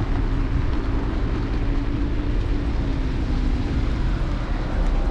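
Electric scooter ride noise picked up by a handlebar-mounted camera: a steady low rumble of road and wind noise with a faint steady hum.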